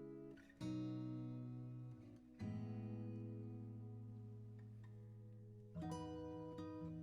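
Background music: acoustic guitar strumming slow chords, three strums each left to ring and fade before the next.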